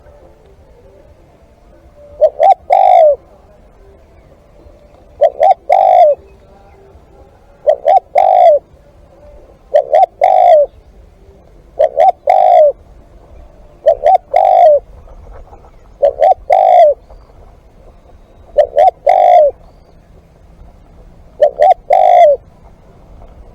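Spotted dove cooing: nine repeated calls, each two quick notes and a longer coo, about every two and a half seconds.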